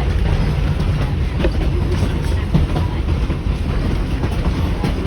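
Riding in an early-1920s Evans carriage rolling along the line: a steady low rumble with irregular clicks and knocks from the wheels over the track.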